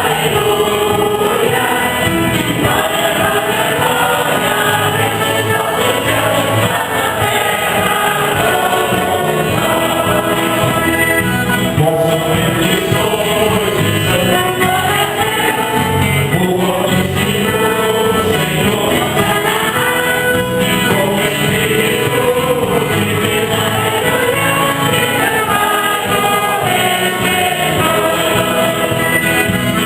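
A choir of community singers singing a church hymn to instrumental accompaniment.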